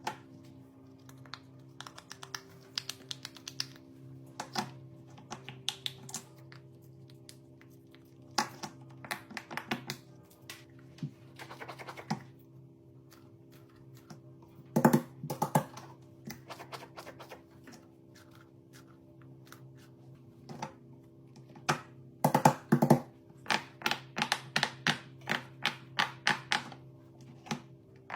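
Irregular small clicks and taps, crowding into quick runs near the end, over quiet steady background music.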